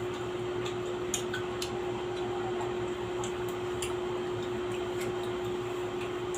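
Steady background hum holding one pitch, with a few faint, scattered light clicks.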